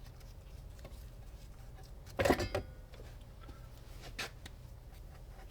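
Small parts and tools being handled on a workbench: a short clatter of knocks and clicks about two seconds in, and a lighter knock about four seconds in, over a steady low hum.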